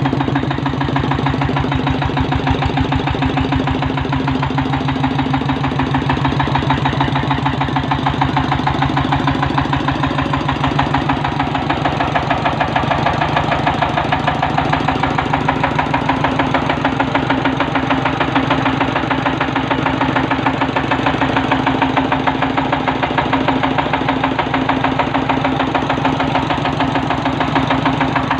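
Golden 1125GD Petter-type 32 hp stationary diesel engine running steadily, with an even, rapid beat of firing strokes.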